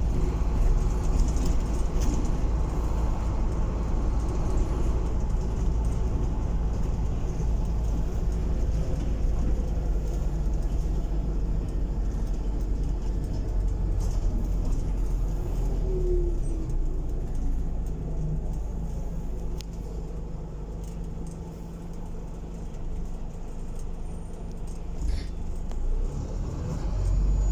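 Scania bus engine running with a steady low rumble and road noise. It eases off about two-thirds of the way through and builds again near the end.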